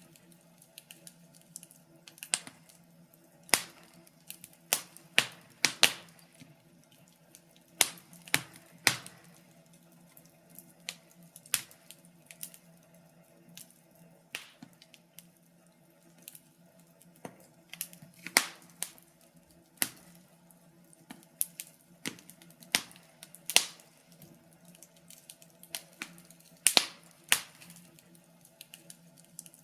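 Wood fire crackling: irregular sharp pops and snaps, some loud and in quick clusters, over a faint steady low hum.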